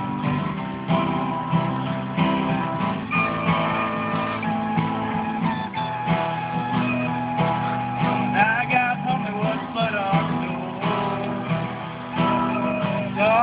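Acoustic guitar strummed in a steady rhythm, with a recorder playing a melody of held notes above it.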